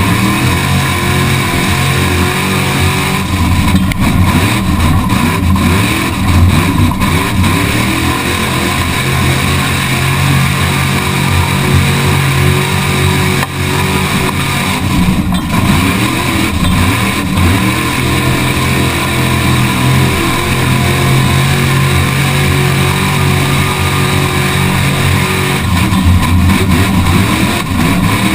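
Truck engine running, with continuous vehicle noise.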